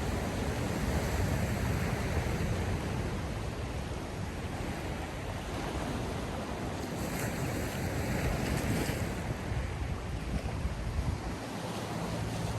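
Sea waves washing on the shore in a steady surf hiss, one wave rushing in louder about seven seconds in, with wind rumbling on the microphone.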